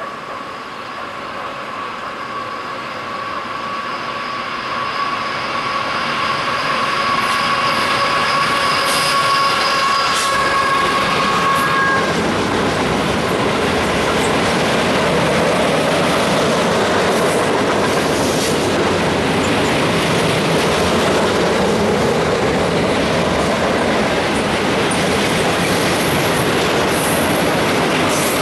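Freight train approaching and rolling past, the sound growing louder over the first several seconds and then a steady rumble and clatter of wheels as a long string of empty open-top coal cars goes by. Steady high whining tones sound over the approach and stop about twelve seconds in.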